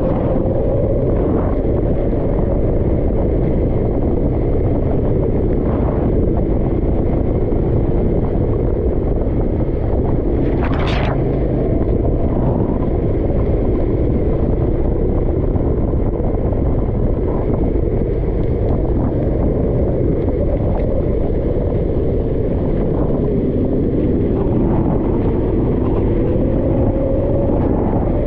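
Kart engine running with its pitch rising and falling, under a heavy low rumble of wind and road noise. A brief sharp high sound cuts through about eleven seconds in.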